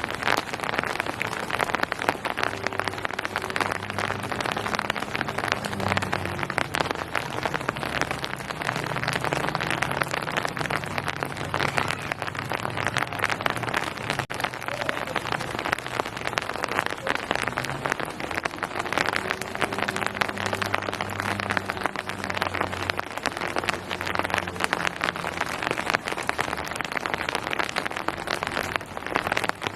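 Steady rain falling on surfaces: a dense, even patter of drops, with a faint low rumble underneath at times.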